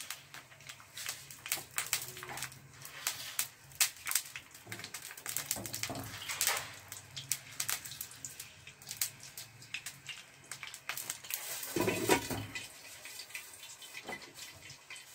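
Sliced onions frying in hot oil in a nonstick frying pan, a steady crackle of small pops. About twelve seconds in, a louder knock as the glass lid goes onto the pan.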